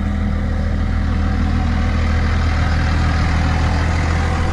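An engine running steadily at idle, giving an even low hum that does not change.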